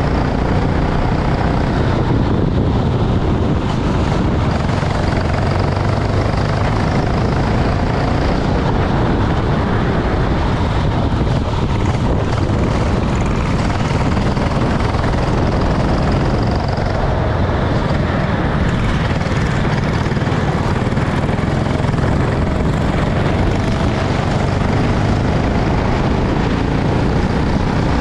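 Go-kart engine running steadily during a race, a loud, even noise with a low hum throughout.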